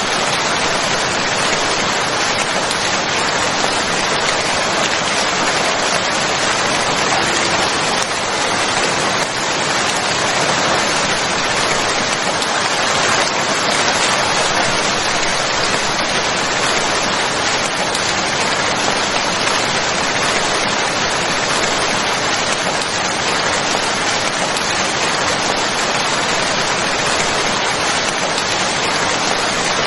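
Steady rain falling, an even, unbroken hiss of rainfall with no breaks or changes.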